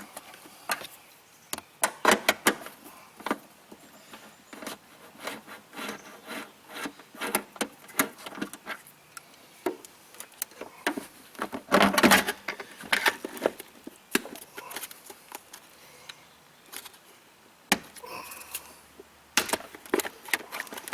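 Irregular clicks, knocks and rattles of hand tools and plastic parts as a car's fuse box is unbolted and its wiring connectors unplugged, with a louder cluster of knocks about twelve seconds in.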